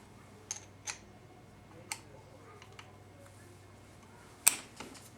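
Sharp clicks and clinks of small metal parts and hand tools being handled during transmission teardown, about five scattered strokes with the loudest about four and a half seconds in, over a faint steady low hum.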